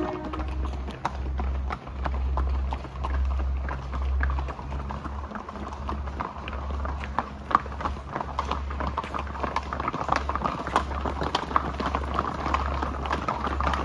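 Horses' hooves clip-clopping, many sharp clops that grow denser toward the end, over a low rumble.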